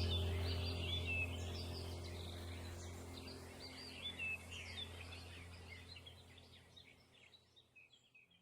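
Several small birds chirping and trilling over a steady low hum, the whole soundscape fading out gradually toward the end.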